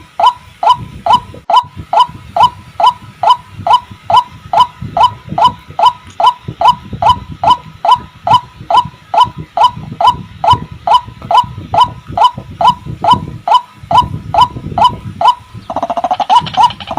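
White-breasted waterhen calling in a steady, even run of short repeated notes, close to three a second. In roughly the last second and a half a second, longer and lower call overlaps the series.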